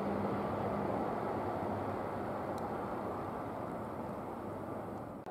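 Keihan 8000 series limited express train running through the station, a steady rumble that slowly fades as it pulls away.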